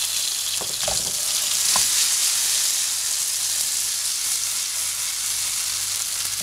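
Cut tomatoes and a garlic clove frying in hot oil in a nonstick pan, a steady sizzling hiss. A few light knocks come in the first two seconds.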